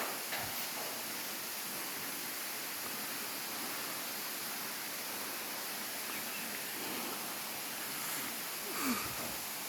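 Steady, even rushing hiss of flowing water from a waterfall stream, with a faint short knock near the start and another about nine seconds in.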